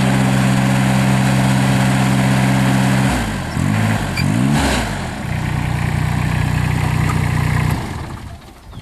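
Kubota three-cylinder turbo diesel of a Terramite T9 loader backhoe running steadily. About three seconds in, its speed swings up and down twice, then it settles to a steady run again before dropping away near the end.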